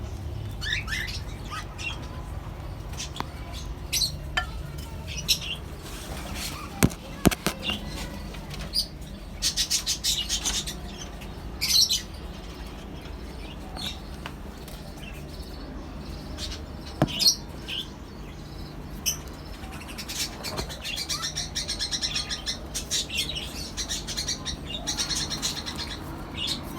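Small pet parrots, a mixed colony of lovebirds, cockatiels and budgerigars, chirping in scattered short high calls that thicken into dense chatter near the end. A few sharp clicks sound through it, over a low steady hum.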